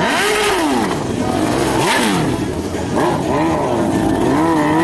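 Motorcycle engine revving, its pitch swinging up and down several times in quick succession as the throttle is blipped and released.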